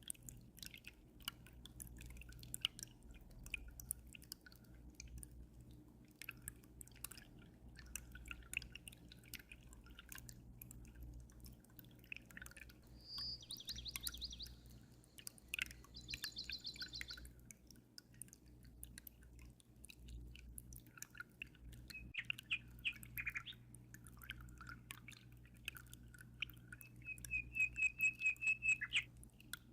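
Aquarium water trickling and dripping in many small splashes over a steady low hum, with small birds chirping: two short trills about halfway through and a louder rapid trill near the end.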